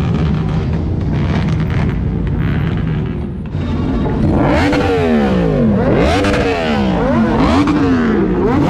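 Motorcycle engines running, a steady rumble at first. From about three and a half seconds in, several bikes rev up and down repeatedly, their overlapping revs rising and falling about once a second.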